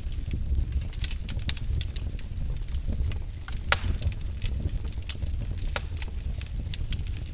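Wood fire in a fireplace crackling, with irregular sharp pops over a steady low rumble. One pop a little under four seconds in is the loudest.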